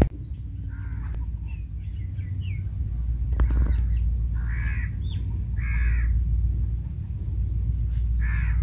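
Birds calling: four harsh caws spread over several seconds, with fainter chirps in the first few seconds. A steady low rumble runs underneath.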